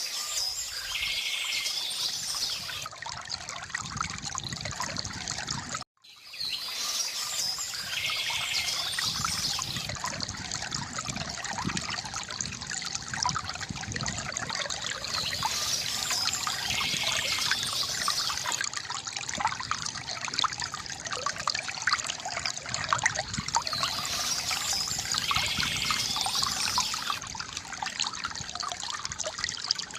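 River water trickling and gurgling steadily, with birds chirping softly at intervals of about eight seconds. The sound cuts out for a moment about six seconds in.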